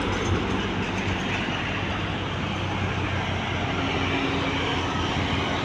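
Passing road traffic: the steady low rumble of a heavy vehicle's engine mixed with tyre and road noise, with a faint steady hum joining in near the end.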